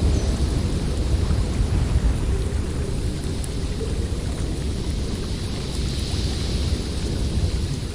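Blizzard wind gusting with a deep, steady rumble, a higher hiss swelling and fading about six seconds in.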